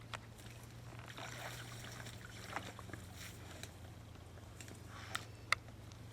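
Kayak paddle strokes in shallow marsh water, soft swishes and dribbles, with a few sharp clicks, the loudest about five and a half seconds in.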